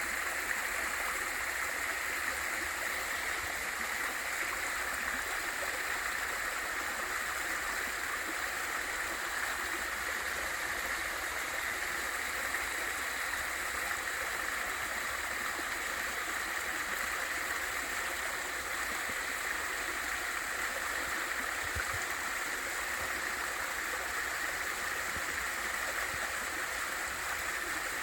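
Water rushing steadily over a small waterfall into a mountain stream.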